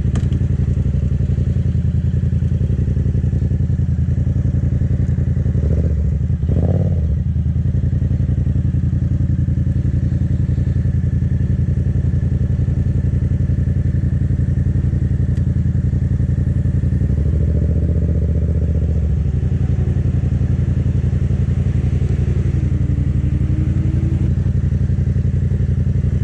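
Yamaha sportbike engine running at low speed as the bike is ridden through slow, tight turns. The engine note climbs briefly about six seconds in and again for a couple of seconds around the seventeen-second mark as the throttle is opened.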